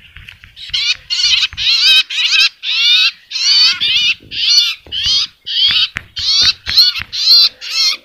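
Small birds chirping over and over, about two quick warbling notes a second, each note wavering up and down in pitch. Faint low knocks from hands handling the branches sit underneath.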